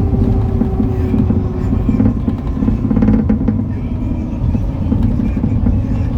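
MAN Lion's City NL293 city bus's diesel engine and drivetrain running under way: a steady low rumble, with a tone that slides down over the first second and a half. A brief rattle comes about three seconds in.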